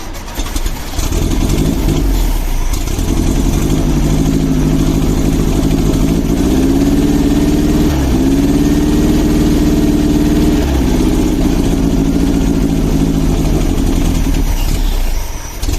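1971 Volkswagen Beetle's air-cooled flat-four engine running after long storage. It is revved up about six seconds in, stumbles briefly near eight seconds, holds the higher speed, then drops back toward idle about eleven seconds in.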